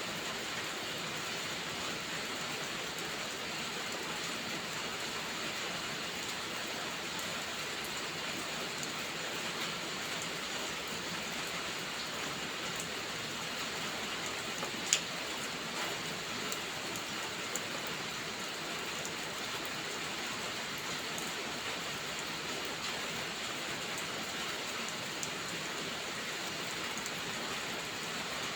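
Steady rainfall, an even hiss of rain hitting surfaces, with scattered faint sharp ticks and one louder click about halfway through.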